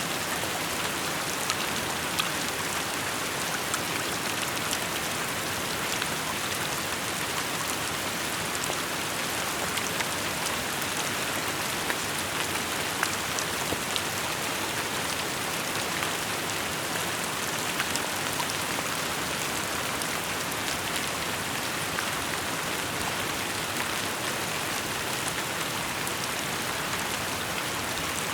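Steady rain falling, an even hiss dotted with the light ticks of individual drops striking surfaces.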